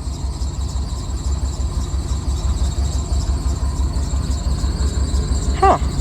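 1990 Ford F-250's engine running with its drive belt squealing steadily, a squeak put down to the belt tensioner.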